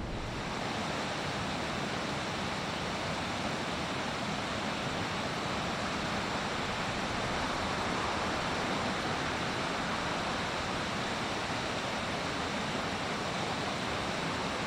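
Steady rushing of fast-flowing river water, even and unbroken throughout.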